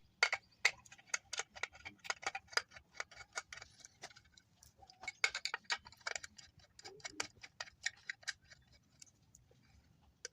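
A run of faint, sharp clicks and ticks at an uneven pace, about two to four a second, thinning out near the end.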